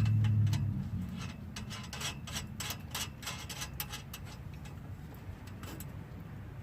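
Irregular light metallic clicks and ticks of hand tools working the nuts of an exhaust pipe clamp, several a second. A low hum fades out in the first second.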